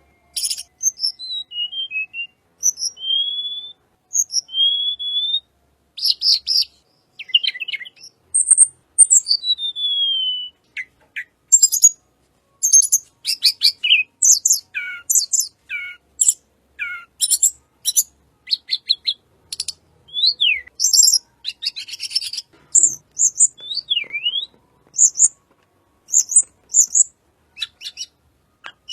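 Tledekan gunung (sulingan gunung) singing a full, varied song: thin high whistled notes gliding up and down, mixed with quick chattering trills and short sharp calls in close succession.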